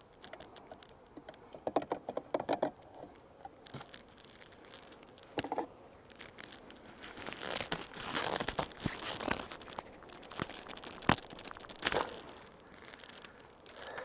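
Handling noise from working an open beehive: crinkling and scraping, with bursts of quick clicks and a few sharp knocks.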